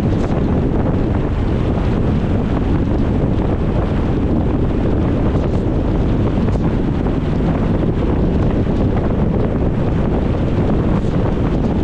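Steady wind buffeting the microphone, with a low rumble from a car driving along a road.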